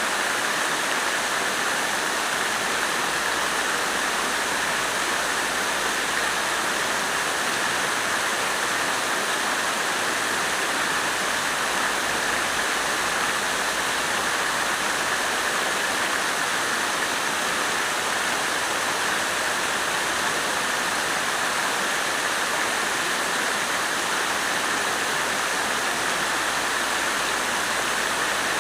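Water fountain splashing steadily, an even, unbroken rush of falling water.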